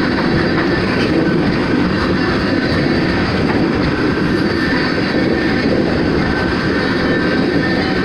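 A rock train's freight cars rolling past, a steady rumble of steel wheels on the rails with faint scattered clicks.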